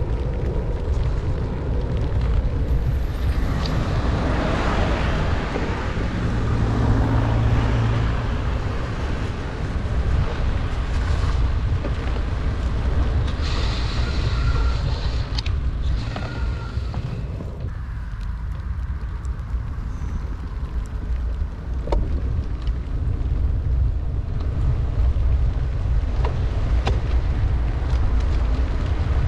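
Wind rumbling on the microphone of a bicycle descending in heavy rain, over a steady hiss of rain and wet road. A brief low hum comes in around seven seconds in.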